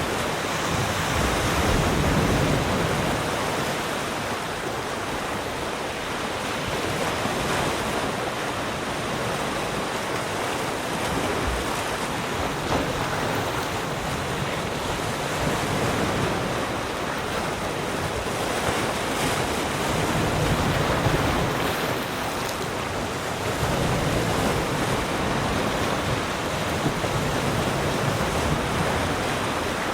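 Sea surf: waves breaking and washing up on the shore in a continuous rush that swells and eases every few seconds.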